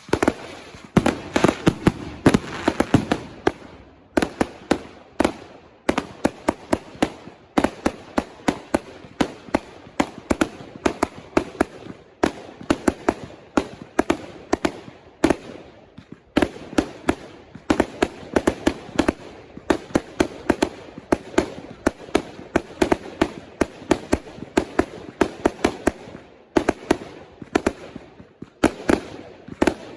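Consumer fireworks going off in a rapid run of sharp bangs, several a second, that starts suddenly and keeps on with a few brief pauses.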